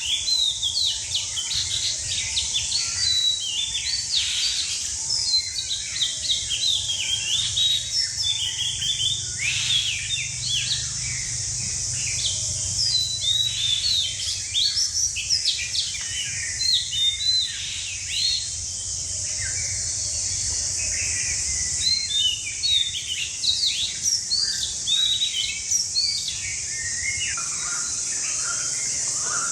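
Many small birds chirping at once: a dense, unbroken chorus of short, quick chirps that bend up and down in pitch, over a steady high-pitched hiss.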